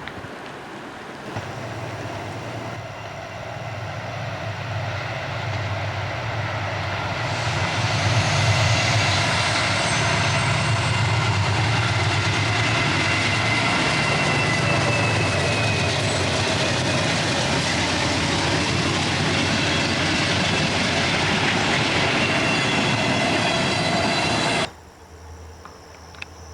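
Train rolling past close by, growing louder over the first several seconds and then holding steady, with thin high squealing tones from the wheels on the rails. The sound cuts off abruptly near the end.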